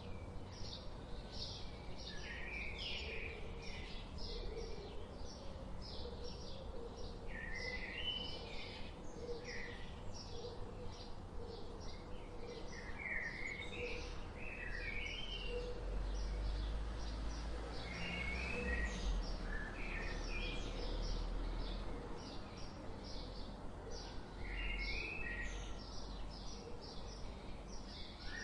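Several songbirds chirping and singing: a steady run of quick, high chirps with short warbled phrases breaking in every few seconds. A low rumble swells under them through the middle.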